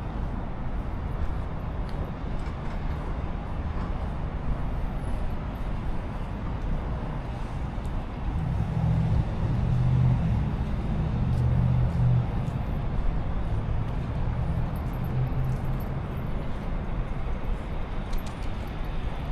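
Downtown street traffic running steadily, with a low rumble. About halfway through, a heavier vehicle's engine grows louder for a few seconds as it passes, then fades.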